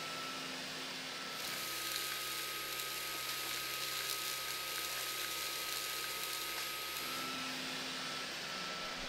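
Dyson Gen5outsize cordless vacuum running, with a steady motor whine over a rush of air. About a second and a half in, the air rush grows louder and hissier; it eases back near the end.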